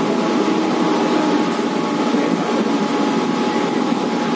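Suburban electric local train running at speed, heard from inside the coach: a steady rumble of wheels on rails and rushing air, with a faint steady whine above it.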